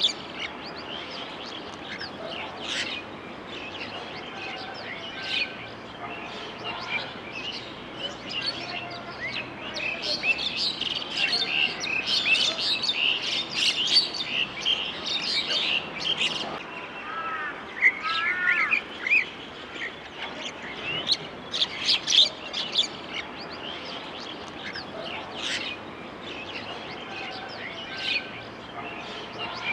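Many small birds chirping and calling together, a steady chorus of short high chirps that grows busiest around the middle, with a short run of lower, curving calls a little past halfway.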